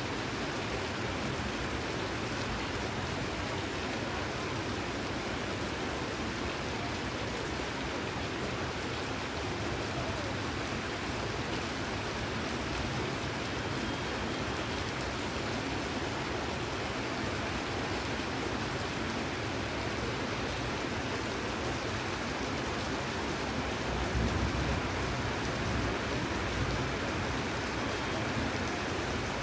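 Steady rain falling, an even hiss of rain.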